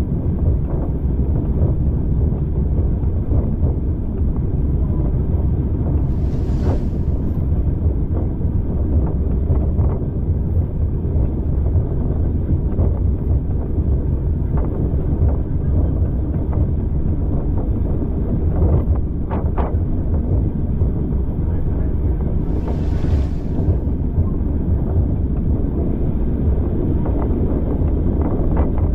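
Steady rumble of a passenger train on the move, heard from inside a carriage with wind buffeting the microphone. Two short hisses rise and fade, one about six seconds in and one near the end, and a few brief clicks come about two-thirds of the way through.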